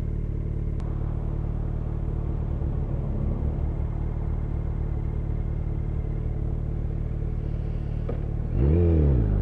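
Motorcycle's inline-four engine running steadily at an even speed, then revving up near the end, with a brief rise and fall in pitch before it climbs again.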